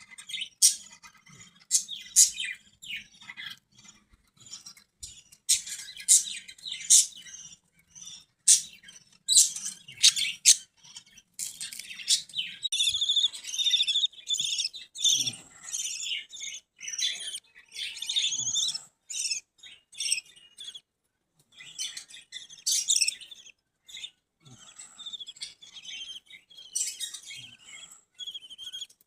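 Pet budgerigars chirping and chattering: a stream of short, sharp, high chirps, thickening into a dense run of warbling chatter about halfway through.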